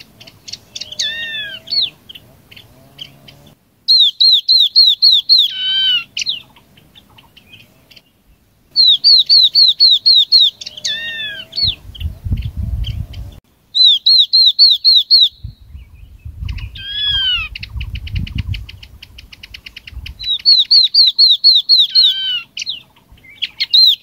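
Yellow-eyed babbler song played as a lure call. Phrases of rapid, clear, high notes repeat about every five seconds, each phrase ending in a few notes that fall in pitch. A low rumble comes in twice around the middle.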